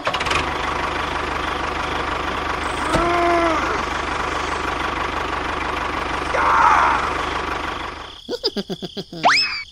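An engine running steadily with a fast, even knock, with a short pitched honk-like tone about three seconds in. Near the end the running sound stops and several quick rising whistle-like glides follow.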